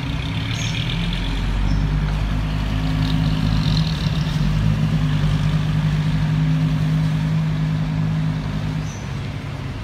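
Heavy diesel engine running steadily under load. It picks up about a second and a half in and eases off near the end.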